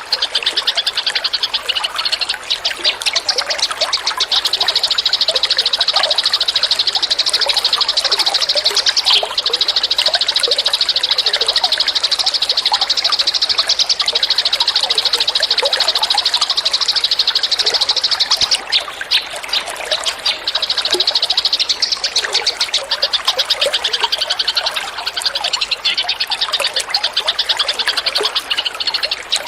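A songbird singing a fast, high-pitched continuous trill, broken off briefly a few times, over running water trickling underneath.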